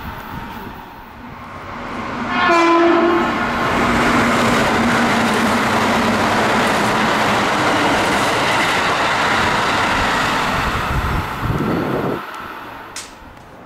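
A Keikyu train sounds a short horn blast about two seconds in and runs past close by. Its wheel and rail noise stays loud and steady for about ten seconds, then drops off sharply near the end.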